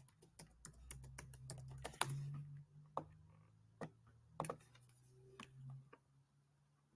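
Faint, irregular clicking, with a low steady hum underneath.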